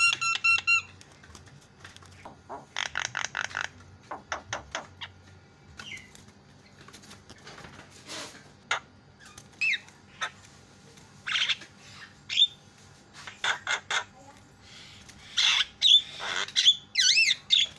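Javan myna (jalak kebo) calling in irregular bursts: a run of rapid ringing notes at the start, quick clicking chatter, short whistled slurs, and harsh squawks mixed with wavering whistles near the end.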